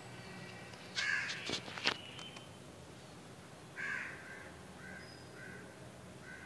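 A bird calling: a loud harsh call with a couple of sharp clicks about a second in, then another call near four seconds and a run of shorter calls about twice a second.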